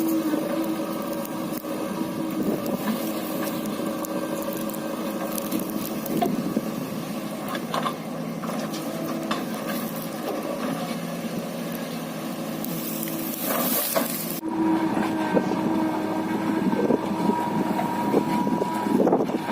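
JCB backhoe loader's diesel engine running steadily while it works, with a few short knocks. The sound changes abruptly about three-quarters of the way through.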